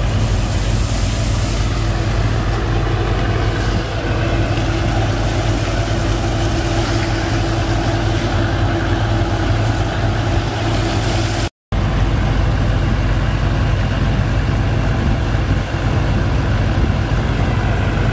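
Sand-pump engine running steadily, a low engine drone with an even rushing noise over it; the sound drops out for an instant about eleven and a half seconds in.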